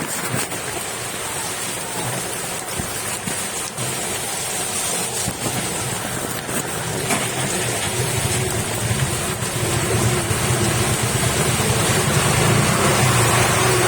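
Heavy rain pouring steadily, with a motor vehicle's engine growing louder over the last few seconds.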